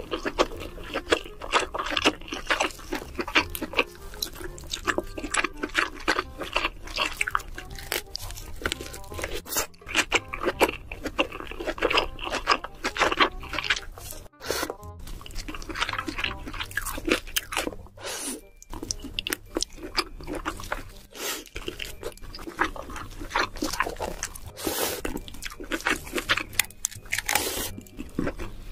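Close-miked eating: rapid, irregular crunching and chewing that goes on almost without pause, briefly dropping off twice near the middle. Music plays underneath.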